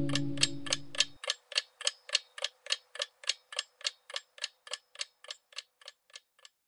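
Clock-like ticking, about three to four even ticks a second, fading steadily away; a music chord dies out about a second in.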